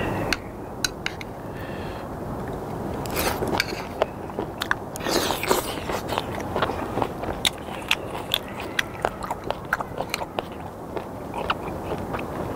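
Close-up chewing of a mouthful of kimchi and sliced raw skate: wet, crunching mouth sounds with many sharp clicks, most frequent in the middle of the stretch.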